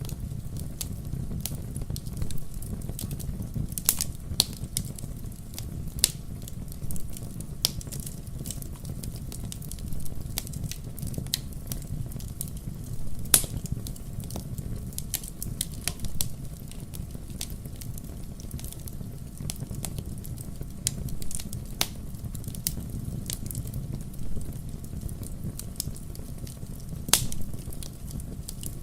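Wood fire crackling: irregular sharp pops and snaps over a steady low rumble, a few pops standing out louder than the rest.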